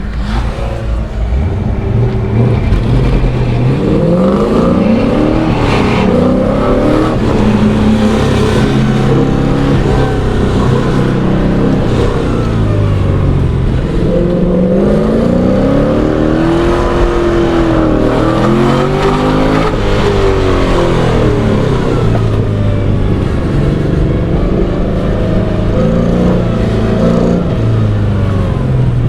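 LS-swapped BMW E36's GM LS V8 revving up and falling back over and over as the car accelerates and brakes through an autocross course.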